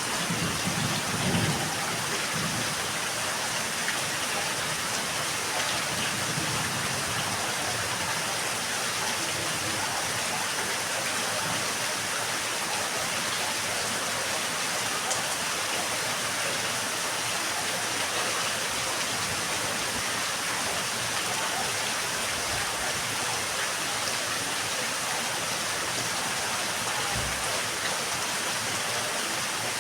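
Steady rain falling, an even hiss throughout. A low rumble of thunder dies away in the first couple of seconds.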